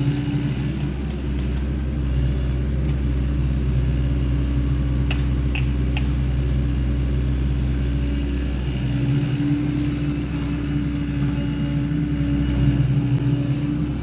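Sany SY75 hydraulic excavator's diesel engine running steadily at working speed while digging and moving soil, with a few brief clicks about five to six seconds in.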